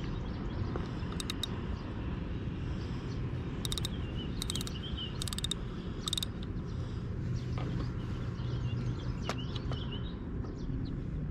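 Small birds chirping in several short, rapid trilled bursts, with a few softer curling calls later, over a steady low outdoor rush.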